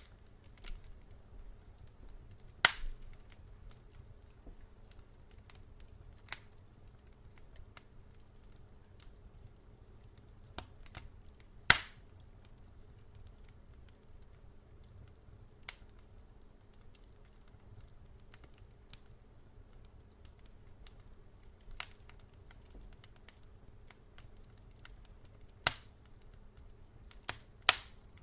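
Campfire crackling: scattered sharp pops and snaps of burning wood, a few seconds apart, with the loudest pop about twelve seconds in and a cluster near the end, over a faint steady low hum.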